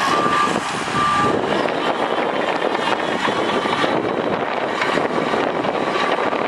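Heavy earthmoving machinery's diesel engine running steadily, with a backup alarm beeping: two clear beeps in the first second and a half, then fainter beeps later.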